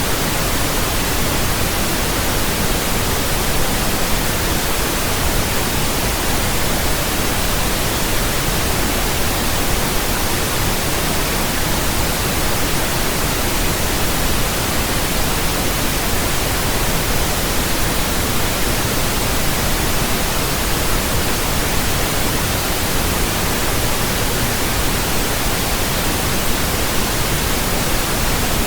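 Pink noise: a steady, even hiss spread across all pitches, with more weight in the low end than white noise.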